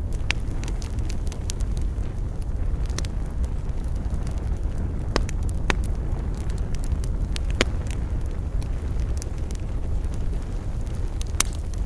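Wood campfire burning: irregular sharp crackles and pops, a few louder ones, over a steady low rumble.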